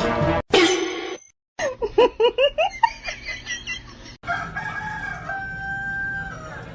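Animal calls across quick clip cuts: a fast run of short chirping or clucking calls, then one long held call that drops in pitch before it ends.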